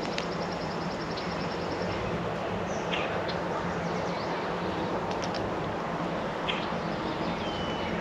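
Songbirds chirping and calling over a steady background hiss. A rapid run of high repeated notes comes in the first two seconds, single short chirps follow, and a level whistled note sounds near the end.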